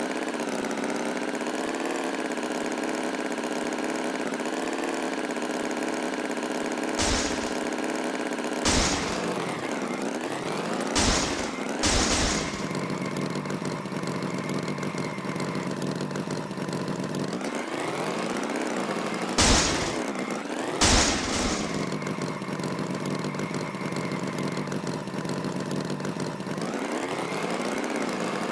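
Tractor engine running steadily, its pitch gliding down and back up a few times, with about six short, loud bursts of noise scattered through it.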